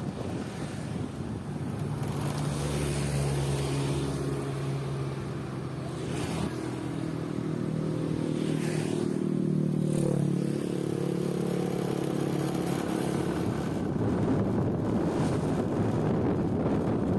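A motor vehicle engine running steadily for several seconds, its hum fading out a little before the end, over a constant outdoor hiss.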